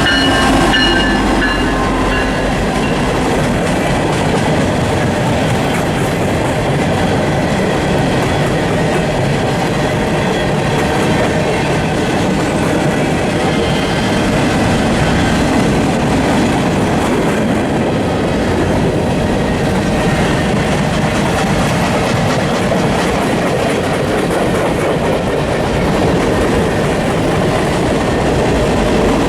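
A train passing at close range, its wheels steadily rumbling and clattering over the rail joints for the whole stretch. The last of a locomotive horn's chord fades out about a second in.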